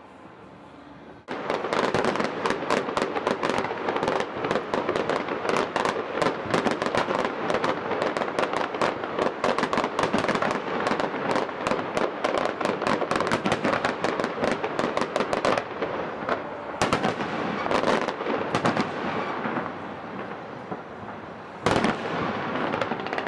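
Fireworks display: after a quiet first second, a sudden dense barrage of rapid bangs and crackles begins. It thins into scattered bursts later on, with one loud bang near the end.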